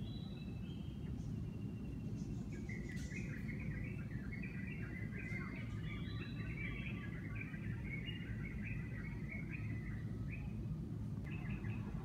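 Bird singing: a long run of quick repeated chirping notes from about two and a half seconds in until near the end, with a few short notes at the start and the end, over a steady low rumble.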